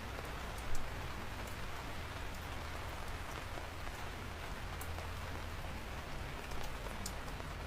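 Steady rain falling, with scattered individual drops ticking on a surface and one louder tap just under a second in.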